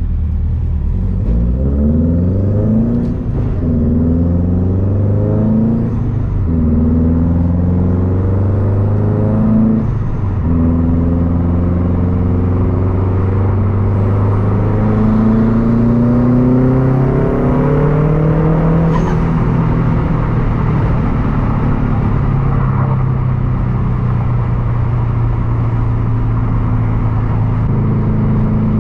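Turbocharged 2.5-litre flat-four of a 2013 Subaru WRX STI running through a Tomei Expreme Ti unequal-length exhaust under acceleration. Its pitch climbs and drops back at each upshift, about every three to four seconds, then it holds a steadier, lower note before rising again near the end.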